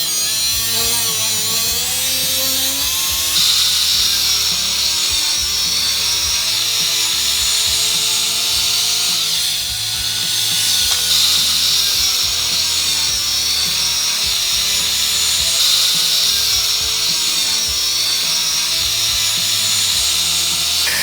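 Power tool working steel leaf spring: a steady, loud, high-pitched whine and hiss that shifts in pitch and strength a few times as the tool is pressed into the metal.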